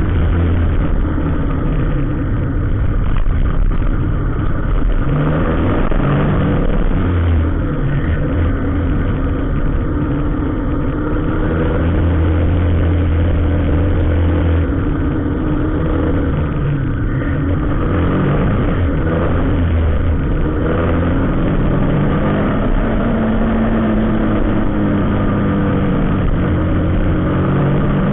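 Vehicle engines running in slow, crawling traffic, their pitch rising and falling as they pull away and ease off.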